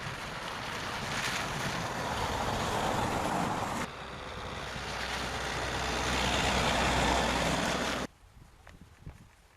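Loud, steady rushing wind noise buffeting the microphone, with a deep rumble underneath. It changes abruptly about four seconds in and cuts off suddenly about eight seconds in, leaving only faint low knocks.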